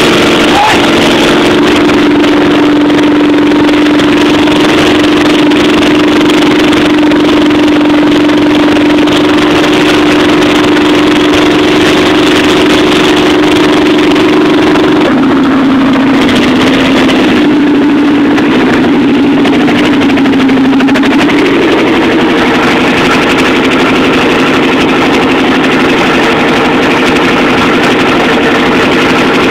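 Freshly rebuilt Chevy 350 V8 in a T-bucket hot rod idling loudly through open, unmuffled headers. About halfway through the idle sags and hunts unevenly for several seconds, then settles back into a steady beat.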